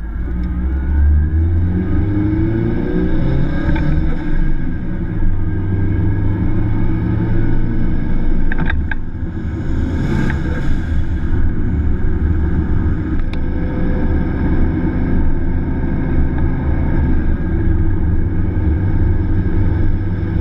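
Toyota MR2 Turbo's turbocharged four-cylinder engine heard from inside the cabin, pulling up through the revs in the first few seconds, then running steadily under way. A brief rush of noise comes about ten seconds in.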